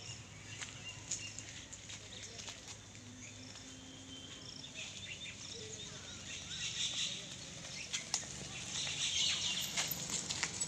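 Outdoor ambience with birds chirping, plus scattered faint clicks.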